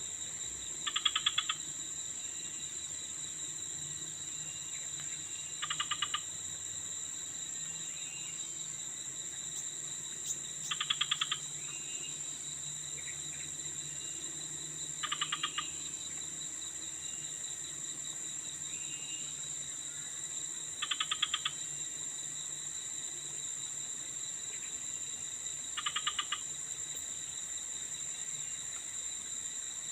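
Insects singing, crickets among them: a steady high-pitched drone, joined about every five seconds by a short pulsed chirping call.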